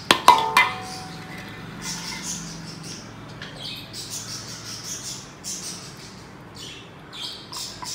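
A metal spoon clinks sharply against a stainless steel bowl a few times at the very start, ringing briefly. Then birds chirp over and over with short high calls.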